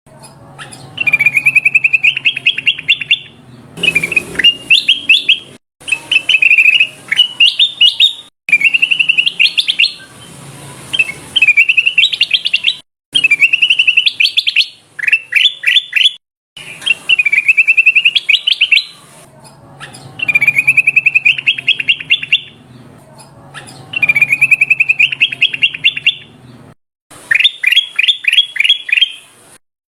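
Kutilang emas bulbul singing: about ten loud, rapid trilled phrases of two to three seconds each, each climbing in pitch toward its end, with short pauses between them.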